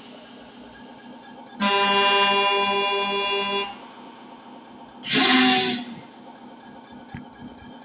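Truck air horn sounding one reedy, steady blast of about two seconds, then a shorter blast with a hiss of air about a second and a half later.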